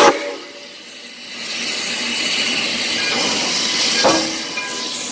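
Steam locomotive 3415's whistle ends a blast at the very start. After that comes a steady hiss of steam that swells up about a second and a half in, as the engine starts to move off.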